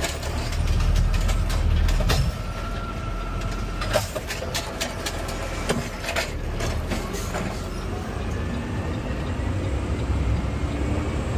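Garbage truck's diesel engine revving as the automated side arm lifts a trash cart, followed by a run of knocks and clatter as the cart is tipped and shaken into the hopper and set back down, over a steady idle.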